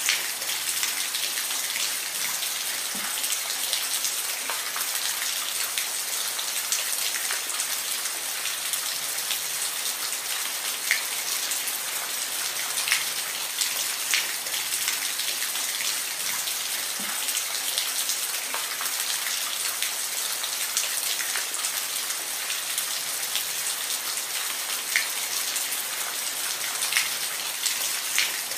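Steady rain falling, a constant hiss with scattered individual drops tapping out distinctly now and then.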